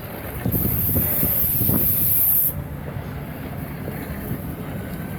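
A passenger train pulling into a station platform, with a steady low rumble. A loud hiss starts about half a second in and stops suddenly about two seconds later.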